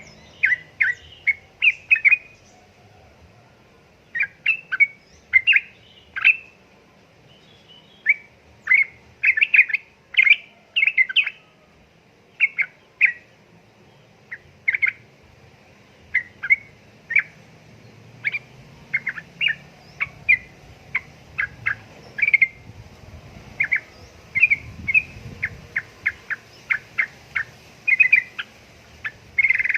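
Yellow-vented bulbul (trucukan) singing: quick clusters of short, bubbly chirps, several to a burst, repeated with brief pauses.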